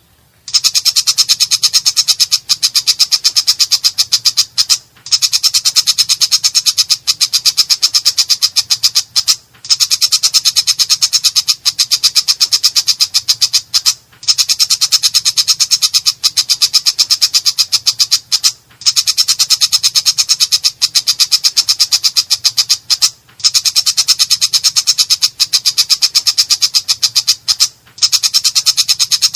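Long-tailed shrike (cendet) giving a harsh, very rapid rattling chatter. It comes in runs of about four seconds with short breaks between them.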